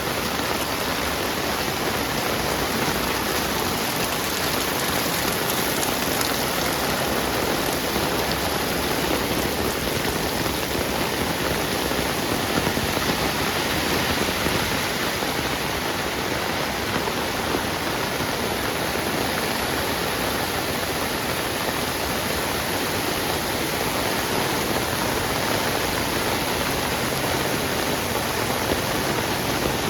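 Heavy rain falling steadily, a dense even hiss of rain on hard surfaces.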